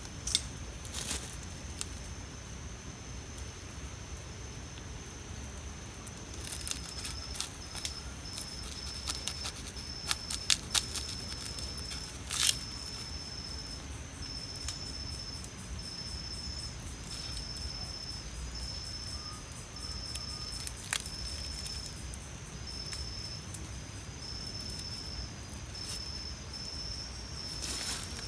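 Night insects, crickets among them, calling steadily in a high thin trill. A second insect joins about six seconds in with a call of short, evenly repeated pulses. Scattered sharp crackles and clicks come mostly in the first half, the loudest near the middle.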